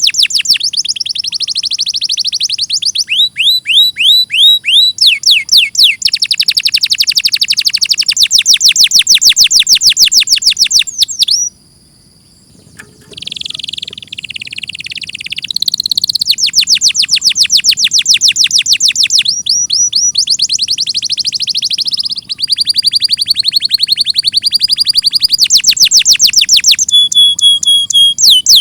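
Domestic canary singing a long song of rapid trills, each a fast run of repeated high notes, with the pitch changing from one trill to the next. There is a brief pause about halfway through, then a buzzier, rolling phrase before the trills resume.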